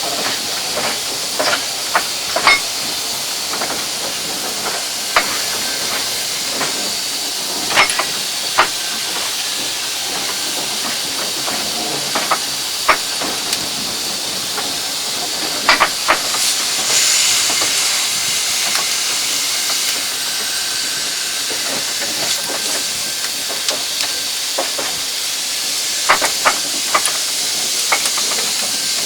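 Steam hissing steadily from the Eureka, an 1875 Baldwin 4-4-0 narrow-gauge steam locomotive. Scattered sharp clicks and metallic knocks sound through it, and the hiss swells louder for a couple of seconds about halfway through.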